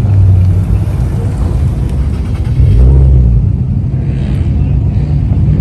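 Loud, deep rumble of car engines, with a brief swell in the low end about three seconds in.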